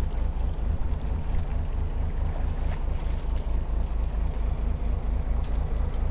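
Steady low rumble of wind buffeting the microphone aboard a fishing boat at sea.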